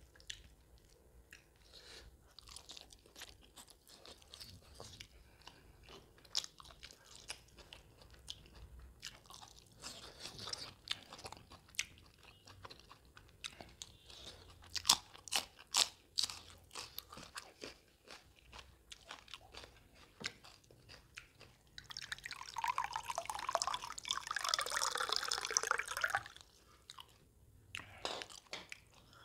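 Close-up mouth sounds of a man eating mutton tripe curry by hand: wet chewing with scattered crunches. The sharpest crunches come at about the middle, as he bites into a raw green chili, and a louder continuous stretch of mouth noise lasts about four seconds near the end.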